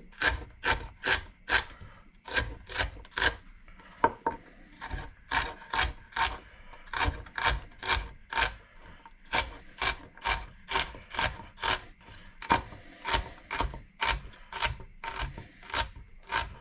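Knife chopping celery stalks on a cutting board: sharp, even cuts about two a second, each ending in a light knock on the board, in runs with short pauses between them.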